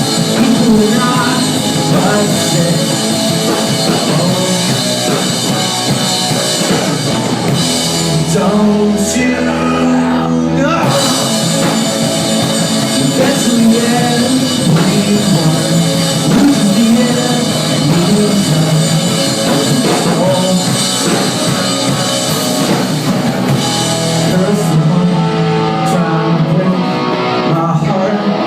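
Live rock band playing: drum kit, electric guitars and singing. About eight seconds in the drums drop out for a couple of seconds under a held, ringing chord, then the full band comes back in.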